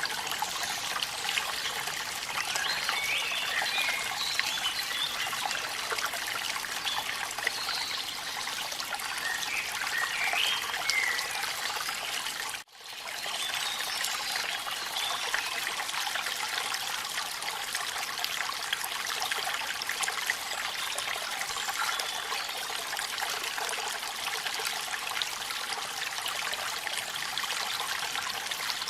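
Steady trickle and splash of running water from a waterfall. Faint chirps sound twice in the first half. The sound cuts out for a split second near the middle.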